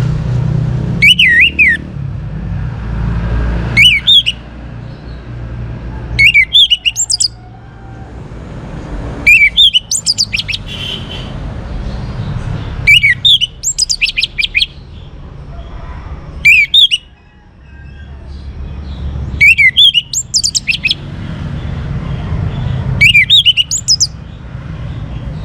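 Young orange-headed thrush singing: eight short, high phrases of quick rising and falling notes, one about every three seconds, over a low steady rumble.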